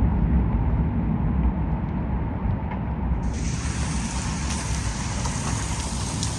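Steady storm noise: wind rumbling on the microphone over rain, with a few faint ticks of small hailstones landing.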